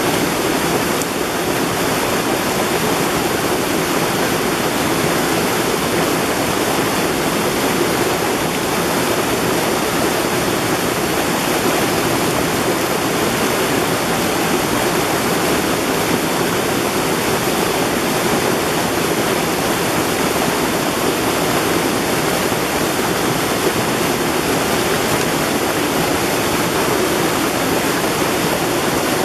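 Mountain valley stream rushing steadily over rocks, a continuous even wash of flowing water.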